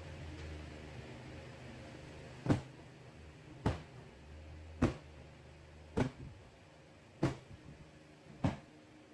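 Six sharp knocks, evenly spaced about a second apart, over a low steady hum.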